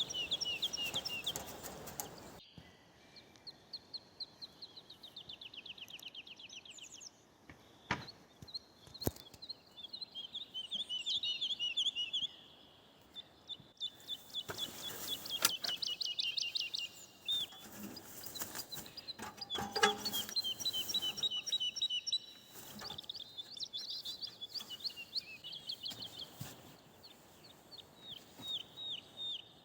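Songbirds singing in spring woodland: a run of repeated quick trilled phrases, each one to three seconds long, with two short knocks about a third of the way through.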